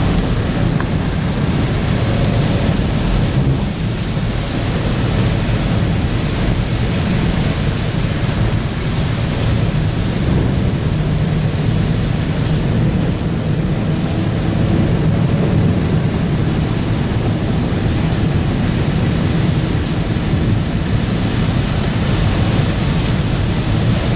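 Steady, dense noise of storm rain on a moving car with a low road rumble underneath.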